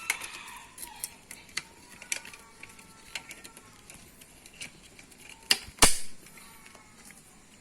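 Scattered clicks and knocks of an iPad holder being handled and fitted, with two loud clacks a little over five seconds in, over faint background music.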